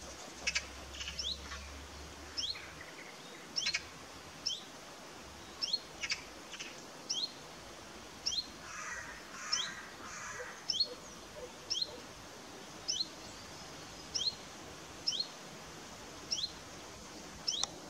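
A small bird repeats a short, sharp rising chirp a little more than once a second, against faint outdoor background noise. A brief, rougher, noisier sound comes in around nine to ten seconds in.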